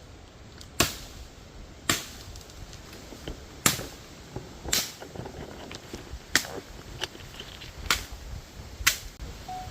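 Chopping blows of a blade into a bush's woody stem: about seven sharp strikes at an uneven pace, roughly one every second or so.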